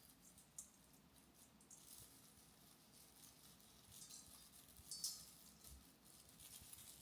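Near silence, broken by scattered faint light clicks and rustles, the loudest about five seconds in.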